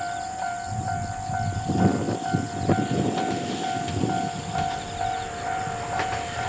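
Ohmi Railway 800-series electric train (set 811F) approaching, its low rumble starting about a second in and growing. Throughout, a steady electronic warning tone pulses about twice a second.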